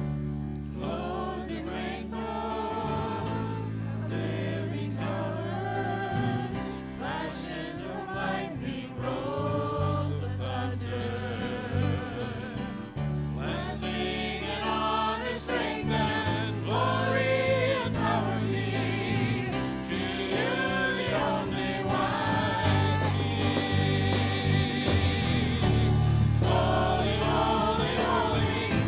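Congregational worship music: a group of voices singing a gospel-style praise song over a steady bass and keyboard accompaniment.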